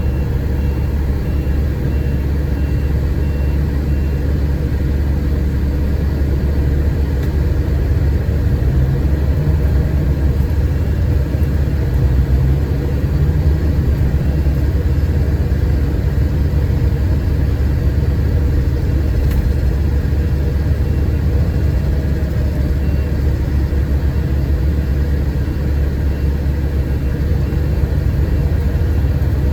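Scania K410IB coach's 13-litre straight-six diesel running steadily, heard from inside the passenger cabin, with a strong low hum. A faint, regular electronic beep repeats near the start and again near the end.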